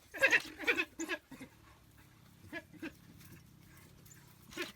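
African wild dogs calling at a kill: a burst of loud, high yelping calls in the first second, then a few short, fainter calls spaced apart, and another loud one near the end.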